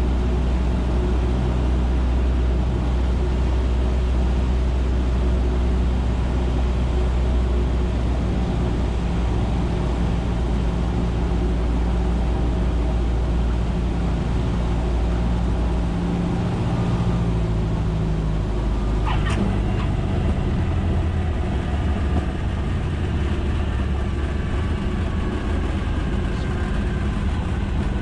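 Cessna 150's Continental O-200 four-cylinder engine and propeller droning steadily. Its note shifts about two-thirds of the way through, and a short high tone sounds soon after.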